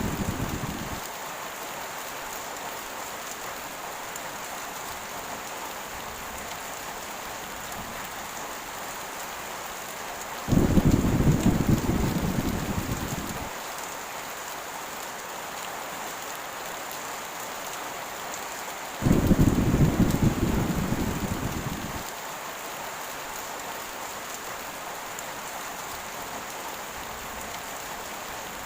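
Steady heavy rain hissing, with thunder rumbling twice, about ten and nineteen seconds in. Each rumble starts suddenly and fades over about three seconds. The tail of an earlier rumble dies away in the first second.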